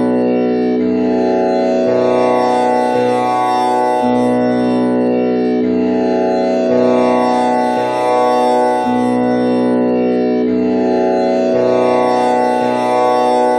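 Tanpura drone with Sa on B and a string tuned to komal Ni, its strings plucked one after another in a steady repeating cycle, a new string sounding about every second and a half over a continuous buzzing ring.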